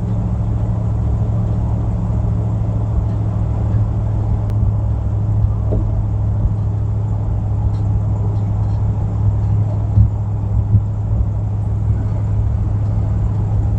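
1961 Chevy Biscayne on the move, heard from inside the cabin: a steady low drone of engine and road noise, with a few brief bumps.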